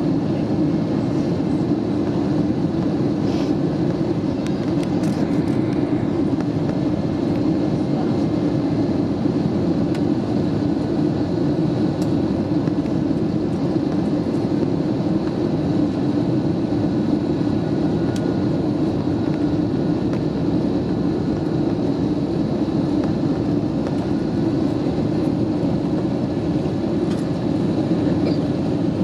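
Steady cabin noise inside an Airbus A320neo in flight: a constant rush of airflow and Pratt & Whitney PW1127G geared-turbofan engine noise with faint steady whining tones above it.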